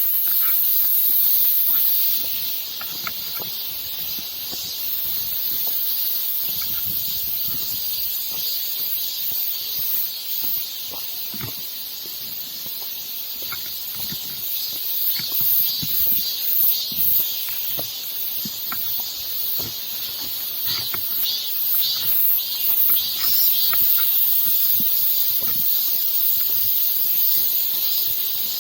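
Strong wind blowing on the microphone: a loud, rushing hiss that swells and falls in gusts, with the strongest gusts in the second half.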